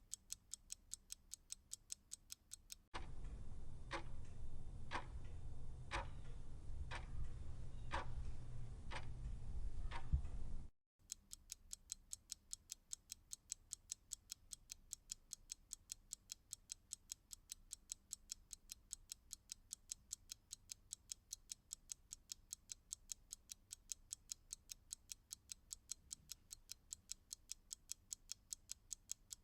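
Clock ticking fast and evenly, about five ticks a second. From about 3 s in, it switches to a louder, slower clock ticking once a second over a low hum. Near 11 s that cuts off suddenly and the fast ticking resumes.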